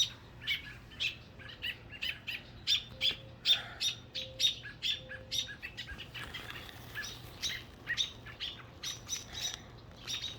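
A young bird chirping over and over: short, high chirps about two a second, from a bird grounded after being harassed by dogs.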